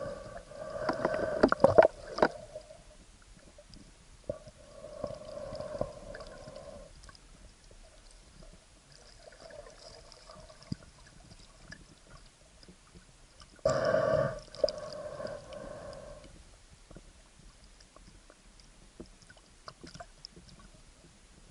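Muffled gurgling bursts of water and breath from a spearfisher in the water, heard through an action camera's waterproof housing. There are four bursts, a few seconds apart, and the first is the loudest.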